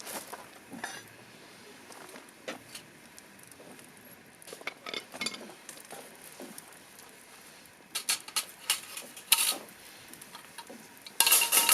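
Metal cookware clinking and clattering as it is handled, in scattered knocks with a louder cluster of clanks near the end.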